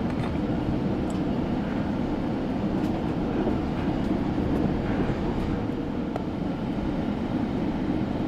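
Steady low rumble of a moving passenger train, heard from on board, with a few faint clicks.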